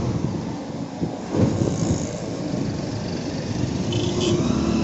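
Vehicle traffic noise: engines running with a steady rumble and a louder knock about a second and a half in.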